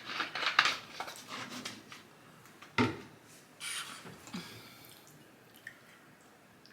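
Close-miked eating sounds: wet chewing and lip smacks on a mouthful of pasta, with a sharper smack or click about three seconds in, then fainter chewing.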